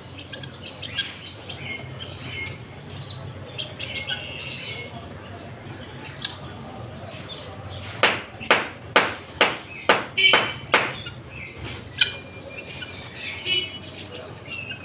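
Small birds chirping and twittering, with a quick run of about eight short, sharp, loud sounds a little past halfway.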